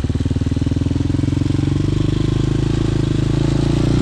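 Hawk 250 motorcycle engine running steadily under way, its pitch creeping up slightly near the end.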